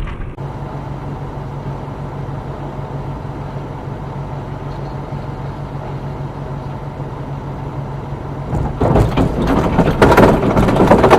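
Motor vehicle engine running steadily with a low drone. About nine seconds in, loud, irregular rough rumbling and banging noise takes over.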